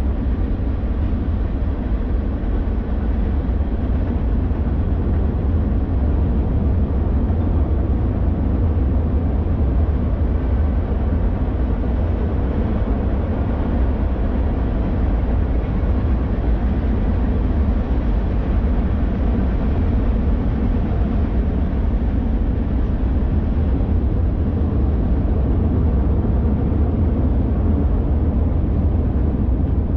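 Freight cars of a long BNSF train rolling across a steel arch railway trestle high overhead: a steady, unbroken rumble of wheels on rail, heaviest in the low end.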